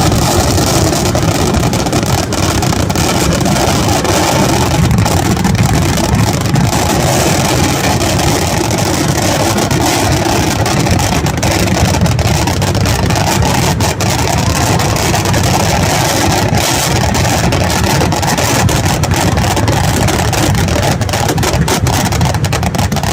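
A continuous rapid barrage of firecrackers, the vedikkettu of a Kerala temple festival, with the individual bangs running together into one steady, dense rumble.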